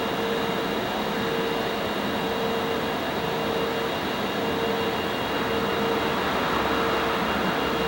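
Steady hum and whine of a pair of JNR EF64 electric locomotives, their cooling blowers running, with a tone that pulses on and off about once a second.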